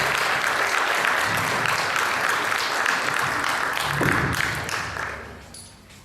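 Theatre audience applauding, with a few cheers, fading out over the last second or so.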